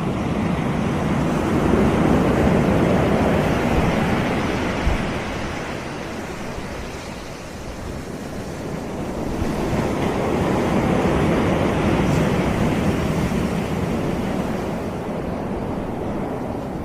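Caribbean sea waves breaking and washing up a beach, swelling twice: loudest about two seconds in, easing off in the middle, then building again.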